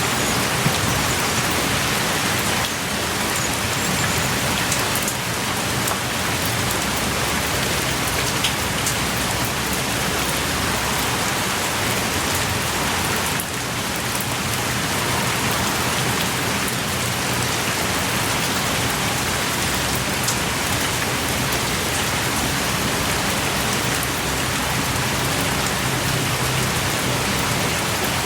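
Heavy rain pouring steadily, heard from the shelter of a small cave, with scattered close drips.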